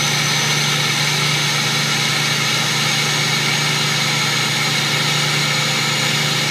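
Ford 6.0 Powerstroke V8 turbo-diesel idling steadily while warming up from a cold start, with a thin high whine over the engine.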